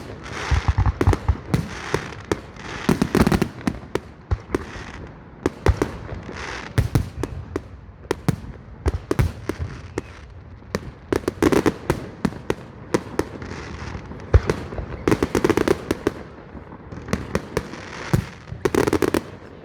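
Fireworks display: aerial shells bursting in quick, irregular succession, with sharp bangs and crackling that keep going without a break.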